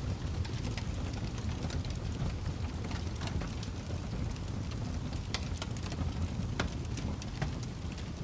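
Wood fire burning in a fireplace: a steady low rumble of the flames with irregular crackles and pops, several a second.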